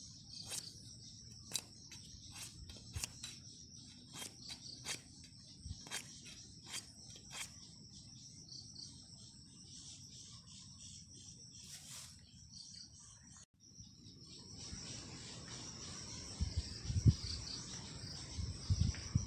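Crickets and other insects chirring steadily in a high, even drone, with scattered sharp clicks through the first two-thirds. After a brief break about 13 seconds in, the chirring goes on, with low thumps and rustling near the end.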